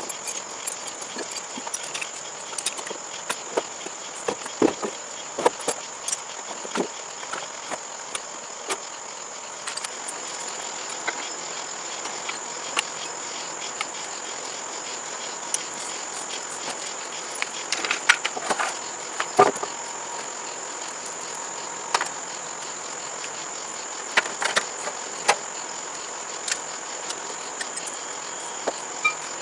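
Steady high-pitched insect trill, like crickets, running throughout. Scattered sharp clicks and knocks come and go over it, with a cluster of louder knocks about two thirds of the way through.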